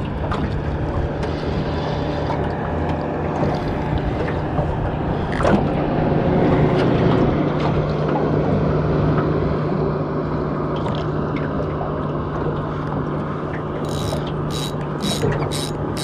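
Spinning fishing reel being wound in, its mechanism clicking and rattling, while a small squid caught on a jig is brought to the boat, over a steady low hum. Near the end come about five short, sharp hissing spurts, roughly two a second.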